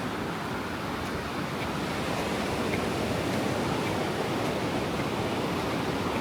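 Ocean surf washing onto a sandy beach: a steady rushing wash of breaking waves that swells slightly about two seconds in.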